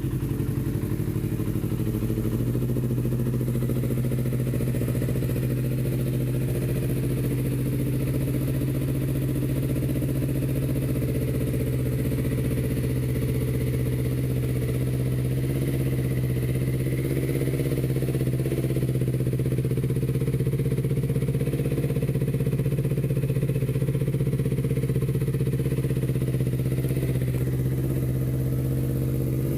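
Honda CBR250RR engine swapped into a Suzuki GSX-R150 motorcycle, running steadily at idle with an even exhaust note.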